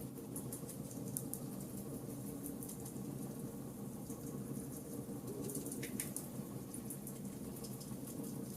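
Charcoal campfire burning, with a steady low rush and scattered small crackles and pops. A slightly louder cluster of crackles comes about six seconds in.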